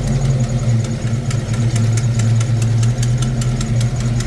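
Ford Fox-body Mustang engine idling with the ignition timing set lower (retarded), with a sharp, fast ticking of about five or six ticks a second that comes in about a second in. The tick persists after a new header gasket, and the owner says it sounds like an exhaust leak.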